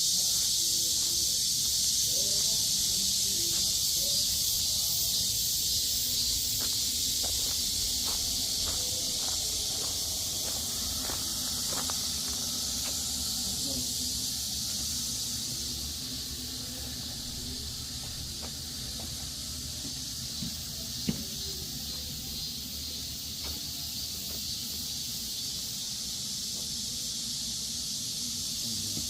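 Steady high-pitched hiss of an insect chorus, easing a little about halfway through, with one sharp click about 21 seconds in.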